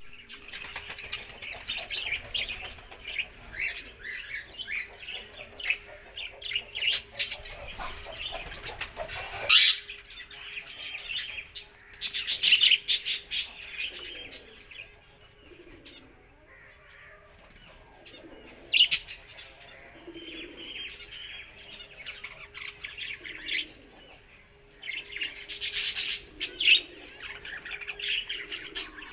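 Small cage birds chirping busily and fluttering about the cage, with loud bursts of wing flapping about a third of the way in, again a little later, and twice more towards the end. A faint steady hum runs underneath.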